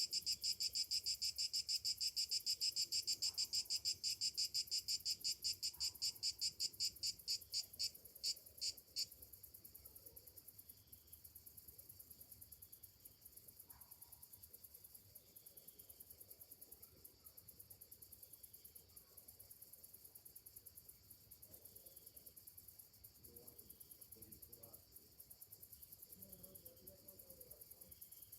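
A cicada singing a loud, rapidly pulsing song that slows and stops about nine seconds in, over a steady fainter high buzz of other insects that carries on.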